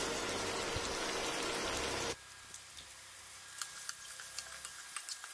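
Thin ivy gourd slices sizzling in oil in a steel kadhai. About two seconds in, the sizzle drops suddenly to a faint hiss, and light clicks of a spoon stirring against the pan are heard.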